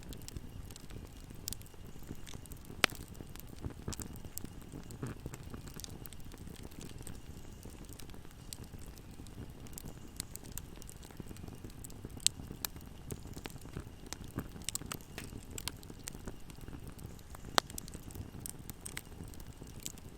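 Wood fire burning in a fireplace: a steady low rumble of flames with frequent sharp crackles and pops, a few louder snaps about 3, 12 and 17 seconds in.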